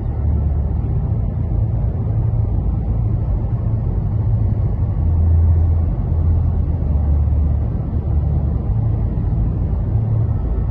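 Steady low road and engine rumble heard from inside a moving car's cabin, with a low hum that swells and fades slightly.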